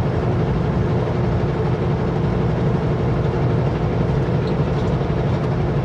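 Steady drone of a Kenworth W900L semi truck heard from inside the cab while cruising at highway speed: the diesel engine's low hum mixed with road and wind noise.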